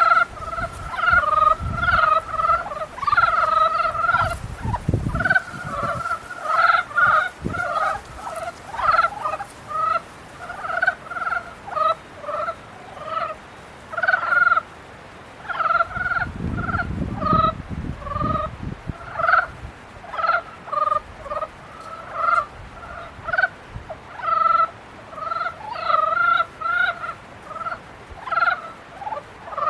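A chorus of breeding frogs calling: many short, repeated calls overlapping continuously. A low rumble comes in twice, briefly a few seconds in and for a few seconds past the middle.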